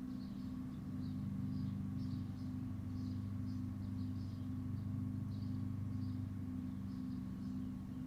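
Backyard ambience: a steady low mechanical hum holding several even tones, with faint short high chirps repeating irregularly a few times a second over it.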